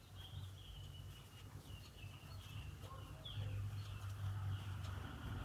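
Faint birds chirping in the background, a string of short high calls over a low steady hum.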